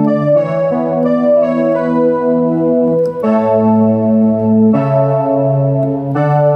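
Yamaha CK61 stage keyboard playing slow held chords on a brass or wind voice, with the chord changing every second or so.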